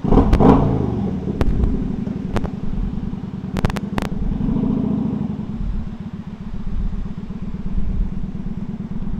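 Kawasaki motorcycle engine revving as the bike pulls away, then running steadily under way with another rise in revs about halfway through. A few sharp clicks sound over it.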